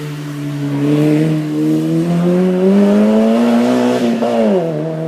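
Hillclimb race car engine pulling hard under acceleration, its pitch climbing steadily for about four seconds, then falling sharply and settling to a steady note.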